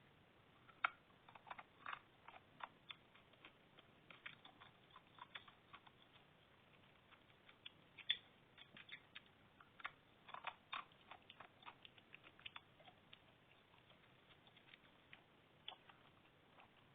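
Close-up crunching and crackling of dry edible clay (multani mitti) being bitten and chewed: irregular sharp crunches, often several a second, with a few louder snaps and a quieter spell near the end.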